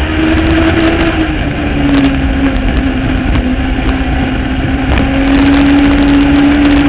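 Legends race car's Yamaha motorcycle engine running hard on track. Its pitch falls about two seconds in as the driver lifts, then climbs again under throttle near the end.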